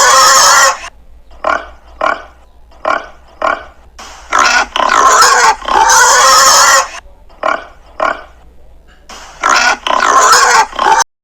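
Domestic pigs squealing in loud drawn-out bursts, with runs of short grunts in between.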